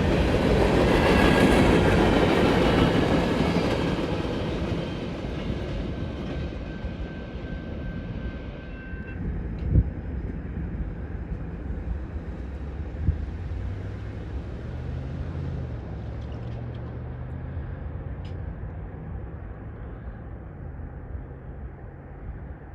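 BNSF mixed freight train's cars rolling past on the rails and fading as the train moves away, with a faint wheel squeal early on. Two sharp clanks come about ten and thirteen seconds in.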